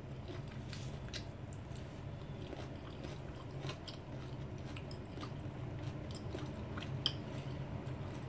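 A person chewing lemon slices with the rind on: faint, crunchy chewing clicks scattered throughout, one a little louder about seven seconds in.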